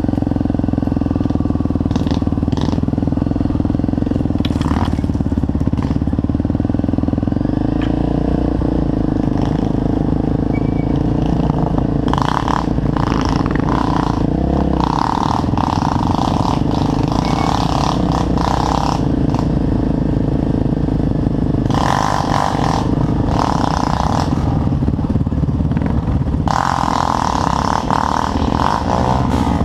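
Trail motorcycle engine running steadily under way, a continuous low drone with stretches of rattling noise over it from about halfway through.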